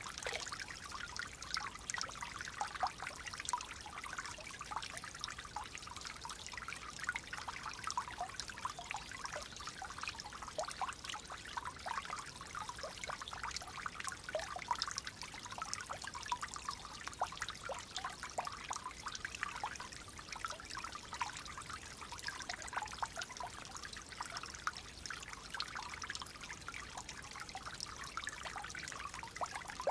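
Clear water flowing gently, a steady stream of fine trickling and splashing without let-up.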